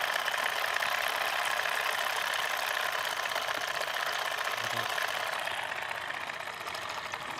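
Small DC motor of a homemade model borewell drilling machine running steadily, a fast buzzing whir that grows slightly quieter toward the end.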